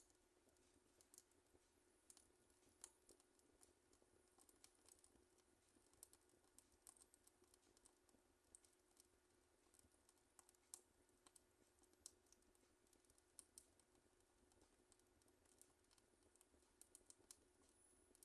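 Faint crackling of a wood fire: sparse, irregular small pops and snaps, several a second at times, over a quiet background.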